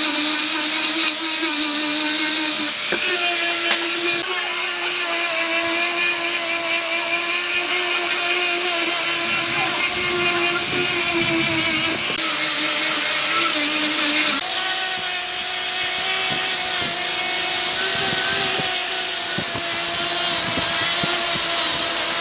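Handheld electric power tool running continuously against wood, a steady motor whine over a grinding hiss. Its pitch shifts a little about three seconds in and again about two-thirds of the way through as the load on it changes.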